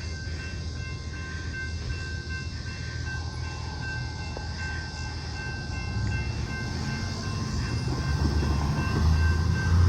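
Union Pacific hi-rail truck running along the railroad tracks: a low rumble of engine and rail wheels that grows steadily louder as it approaches, with steady high tones over it.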